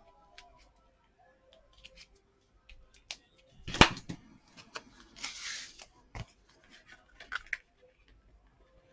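Card-making materials being handled on a craft desk: light clicks and taps, a sharp knock about four seconds in, a short rustle of paper a little later, and another knock after it.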